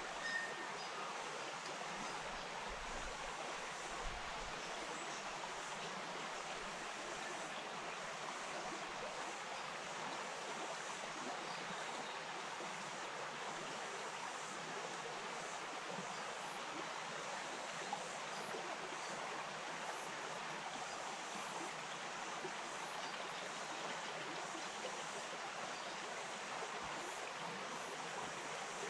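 Stream water flowing and babbling over stones in a steady, even rush.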